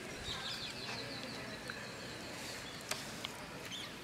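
A small bird chirping in a quick run of short, high notes through the first half, over a quiet rural background. A single sharp click about three seconds in.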